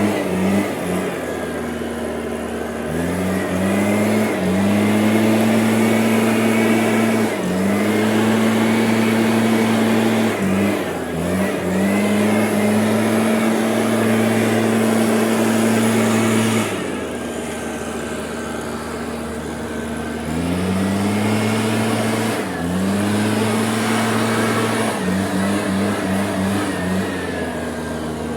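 A motor or engine running at a steady pitch, dropping away and quickly climbing back up to the same pitch several times, with a faint high whine on top.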